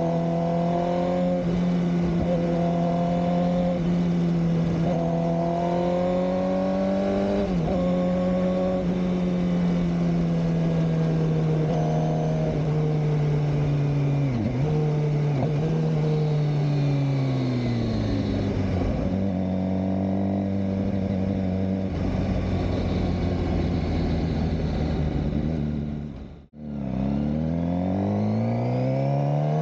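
2007 Suzuki GSX-R600's inline-four engine under way, revs climbing and dropping sharply at each upshift, then falling to low revs as the bike slows. The sound cuts out for a moment about three-quarters of the way through, then the engine revs up again through the gears.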